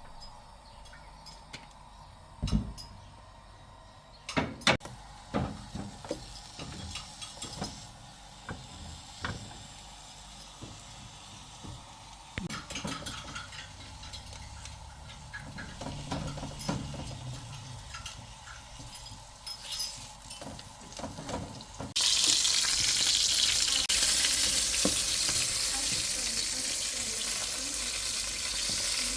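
Scattered clinks and knocks of a utensil against a cooking pot, then, about three-quarters of the way in, a sudden loud sizzling of food frying in hot oil that keeps going.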